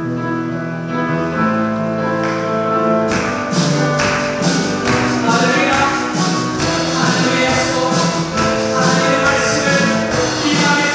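A praise band playing the introduction of a worship song: held chords at first, then percussion comes in about three seconds in with a steady beat.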